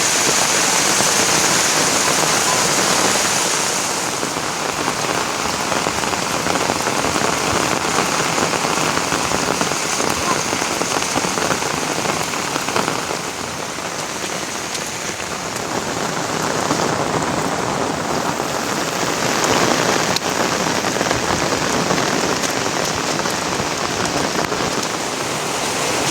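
Steady rain falling, easing a little about halfway through and picking up again.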